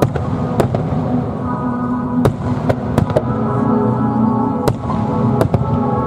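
Aerial fireworks shells bursting: about eight sharp bangs spaced irregularly, a second or less apart. Under them runs steady music with long held notes.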